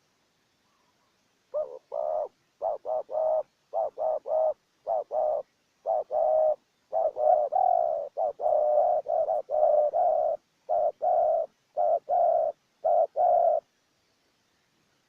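Spotted dove (terkukur) cooing: a long run of short, low coos in quick succession, lasting about twelve seconds, then stopping.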